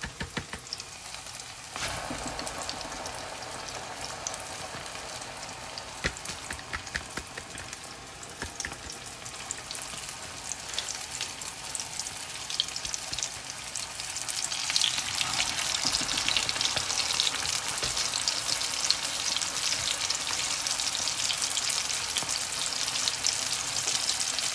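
Flour-coated chicken wings deep-frying in very hot oil in an iron wok: a steady sizzle with small crackling pops. It steps up at about two seconds in and grows clearly louder from a little past halfway.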